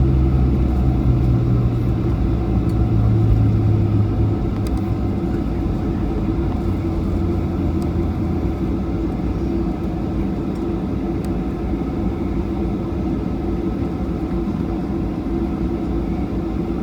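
Cabin noise inside a Boeing 737-800 on the ground just after landing: the engines and the rumble of the rolling aircraft. A deep low rumble eases off over the first few seconds as the jet slows, leaving a steady drone with a constant hum.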